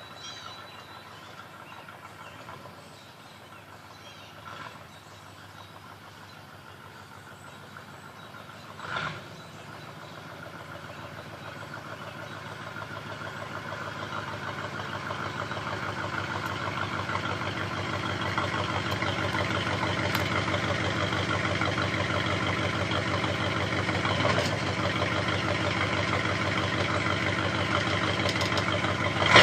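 1985 Ford Ranger's straight-piped exhaust with a 2½-inch turndown, the engine running steadily; the sound grows louder over several seconds from about ten seconds in, then holds. A short thump about nine seconds in and a sharp loud knock at the very end.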